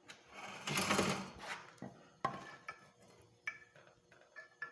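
A wooden block and steel parts being set up and handled on a workbench: a rubbing, scraping sound for about the first second and a half, then a few light metallic clinks, some ringing briefly.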